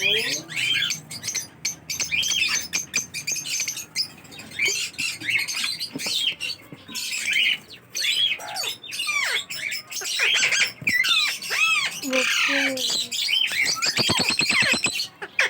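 Parrots squawking and chirping: many short, overlapping calls, with a quick rattling run of rapid pulses near the end.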